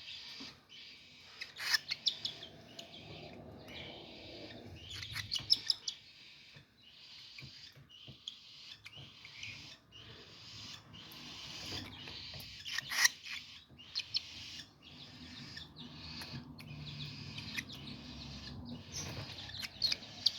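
Baby cockatiel chicks giving short begging calls, repeated over and over, while being hand-fed from a syringe, with a few sharp clicks from handling.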